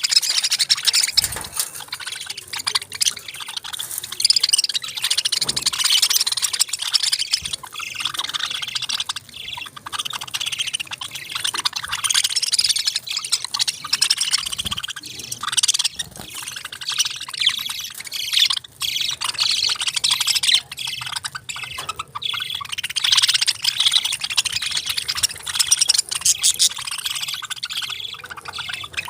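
A group of small pet parrots, budgies among them, chirping and chattering in a dense, continuous jumble of short high calls.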